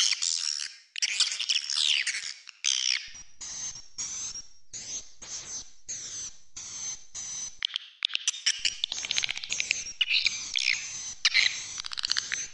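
Swiftlet lure recording ('8D' swiftlet sound): dense, high swiftlet chirps and twitters, broken from about three to eight seconds in by an even run of short chirping pulses about two a second, then dense chirping again. It is a call track for swiftlet houses, meant to draw swiftlets into the building.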